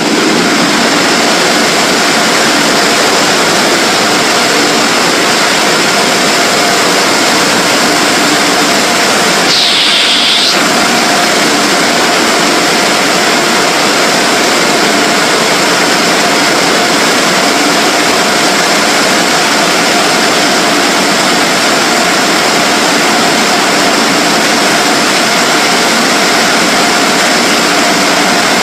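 Automatic car wash air dryers blowing: a loud, steady rush with a constant hum. A brief higher whine comes about ten seconds in.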